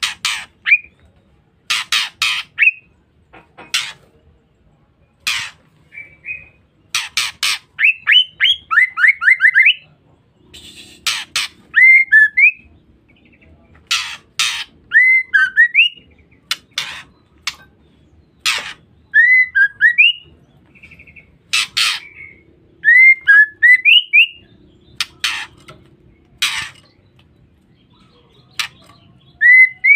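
Female white-rumped shama calling: short, harsh, sharp calls, often in quick pairs, mixed with brief rising and falling whistled notes. The calls come in bursts every second or so, with a quick run of rising notes about eight seconds in.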